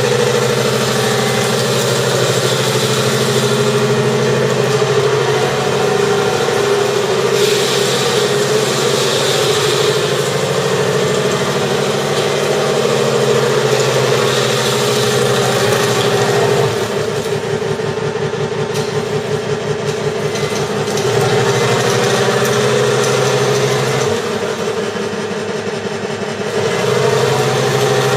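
Electronic engine sound generator in a 1/6-scale Tiger tank model playing a tank engine sound through its speaker, running steadily. About 17 s in, and again about 24 s in, it drops to a quieter, pulsing idle-like note, then comes back up.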